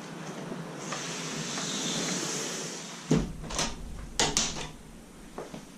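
A door being shut: a steady hiss for a couple of seconds, then a thump about three seconds in, followed by sharp clicks of the handle and latch about a second later.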